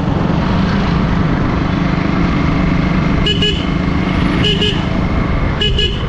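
Motorcycle engine running and road and wind noise while riding, with a vehicle horn giving three short double beeps from about three seconds in, roughly a second apart.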